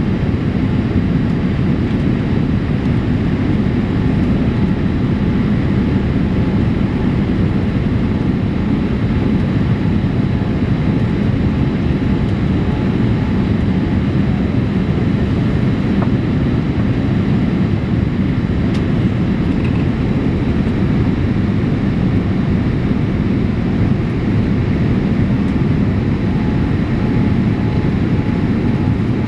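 Cabin noise aboard a Boeing 787-8: a steady low rumble of engines and airflow, with a few faint steady tones over it and no change in level.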